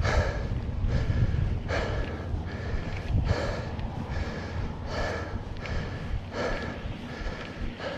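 A mountain-bike rider breathing hard and rhythmically while pedalling, a little more than one breath a second, over a steady low rumble of tyres on the dirt trail and wind on the microphone.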